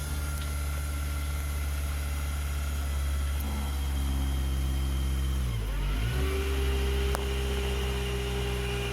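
Nissan Grand Livina engine idling steadily. About five and a half seconds in, the engine speed dips briefly and recovers, and a steady higher hum then joins the idle. The idle has just been repaired and the check-engine light cleared.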